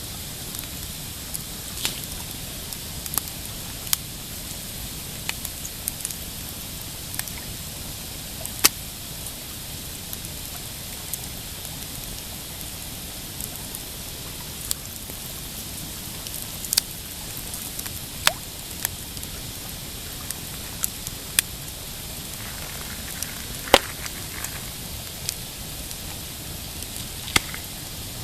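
Pine campfire crackling: irregular sharp pops and snaps, roughly one every second or so, over a steady hiss of burning wood.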